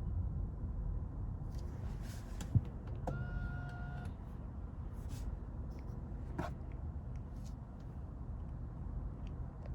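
Low, steady rumble of a 2020 BMW 330i's engine and road noise heard inside the car as it drives. A sharp click comes about two and a half seconds in, a short steady electronic beep of about a second follows just after, and faint scattered clicks sound here and there.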